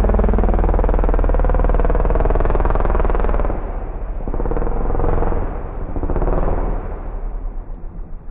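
Engine revving hard under load, easing off and surging again a couple of times, then dropping away near the end.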